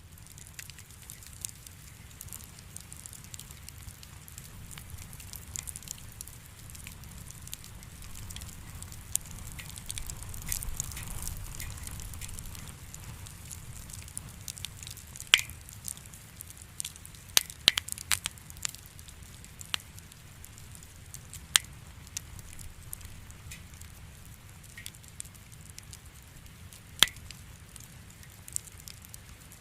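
Wood campfire burning with a steady low rush, the firewood crackling with small sharp snaps and several louder pops, most of them in the second half.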